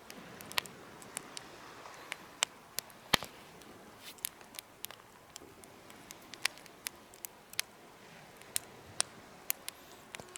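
Wood fire burning in a homemade fire pit, crackling with irregular sharp pops and snaps over a soft hiss, the loudest snap about three seconds in.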